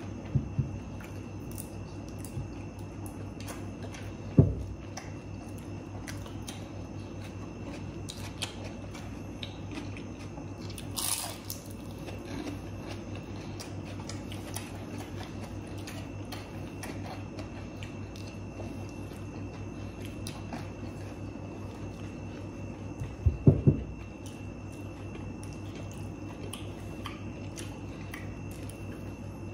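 Close-miked mukbang eating: chewing and crunching of crispy fried food, with many small wet clicks and a brief crackle about eleven seconds in. A few dull thumps stand out as the loudest sounds, one about four seconds in and a quick cluster around twenty-three seconds, over a steady low room hum.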